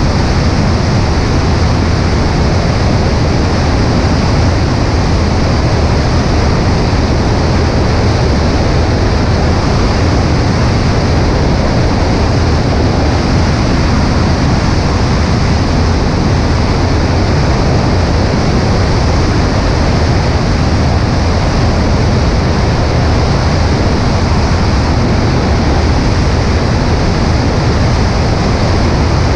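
Cessna 140A light aircraft's engine running steadily under a loud, even rush of air over a wing-mounted camera's microphone.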